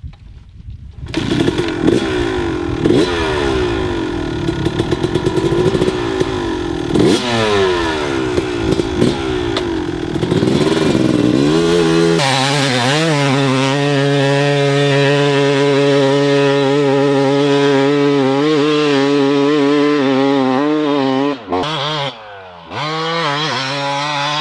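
1996 Kawasaki KX250's two-stroke single-cylinder engine revving hard up and down, then holding a steady high-revving note for several seconds, with a brief drop about three seconds before the end.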